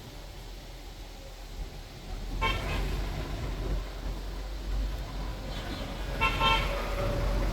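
Street traffic with vehicle horns honking: one honk about two and a half seconds in and another burst of honking near the end, over a low steady rumble of engines.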